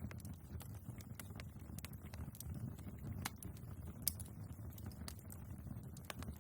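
Wood fire burning in a fireplace: a low steady rumble of the flames with irregular sharp crackles and pops from the logs, the sharpest about four seconds in.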